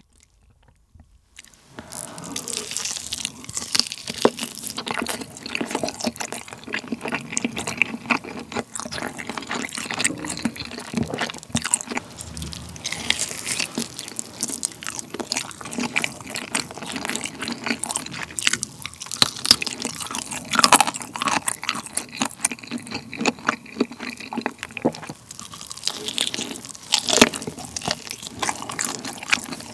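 Close-miked biting and chewing of a grilled, sauce-glazed chicken drumstick: a dense run of small mouth clicks and smacks, starting about a second and a half in.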